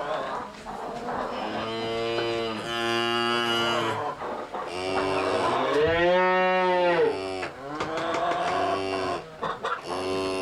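Cows mooing: about five long moos in succession, some overlapping, one in the middle arching up and then down in pitch.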